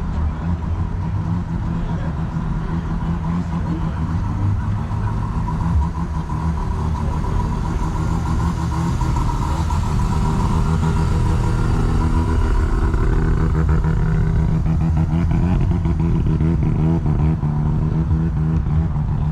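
A car engine running steadily close by, its pitch gliding up and down a little around the middle.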